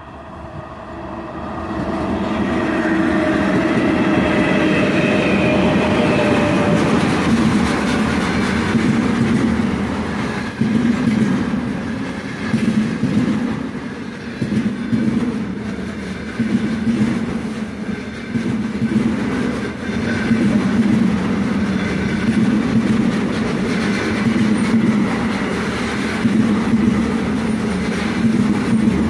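A 3ES5K Ermak three-section electric freight locomotive passes close by at speed. Its sound swells over the first couple of seconds, with whines that fall in pitch as it goes past. Then the container wagons roll by in a steady rumble, the wheels clattering in a regular rhythm about once a second.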